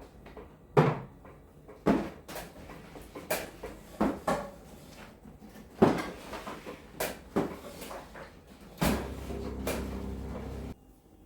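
A series of sharp knocks and clacks, like kitchen cupboard doors and objects being handled and set down during cleaning. Near the end comes about two seconds of a steady low rushing sound that cuts off suddenly.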